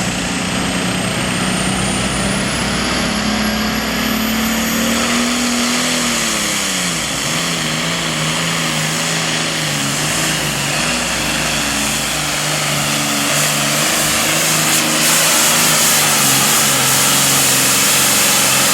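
A Super Farm class pulling tractor's turbocharged diesel engine running hard. Its pitch climbs for the first few seconds along with a rising turbo whine. About six seconds in it drops sharply, then runs on at a lower, pulsing pitch that grows louder near the end.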